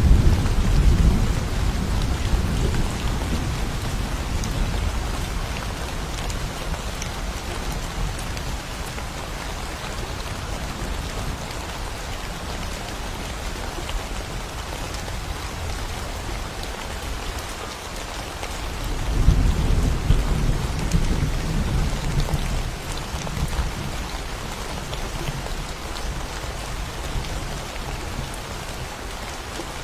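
Steady rain falling during a thunderstorm, with rolling thunder. A low rumble dies away over the first few seconds, and a second rumble swells about two-thirds of the way in and trails off.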